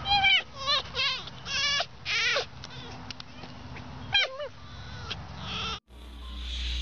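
Fennec fox giving a series of high, wavering, bleat-like whining calls, about six of them in the first few seconds. After a sudden cut near the end, a steady rushing hiss.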